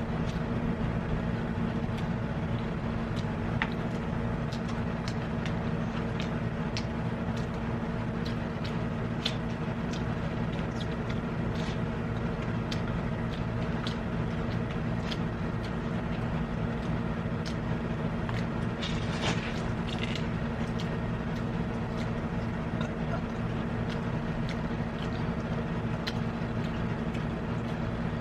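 A steady low machine hum with scattered light clicks of eating and utensils, and a short rustle about nineteen seconds in.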